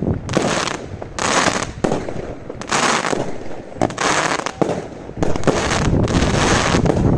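Consumer fireworks going off in a steady string, a hissing burst about once a second with a few sharp cracks between them, over wind rumble on the microphone.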